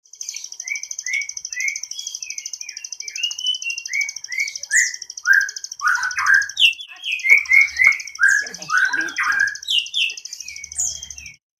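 Songbird singing: a long run of quick, varied chirping notes over a continuous high, buzzy trill.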